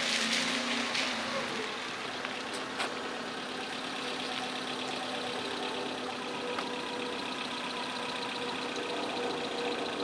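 Small hatchback car pulling up and slowing to a stop, then its engine idling steadily, with one sharp click about three seconds in.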